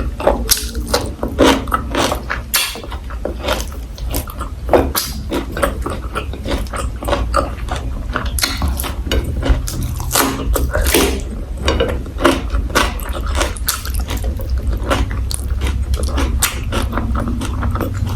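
Close-miked chewing and crunching of food, a rapid irregular series of sharp wet clicks and crunches, over a steady low hum.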